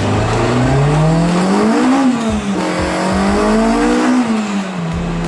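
Honda Integra Type R DC5's K20A four-cylinder VTEC engine accelerating hard through the gears. The pitch climbs steeply, drops at an upshift about two seconds in, climbs again and drops at a second shift about four seconds in.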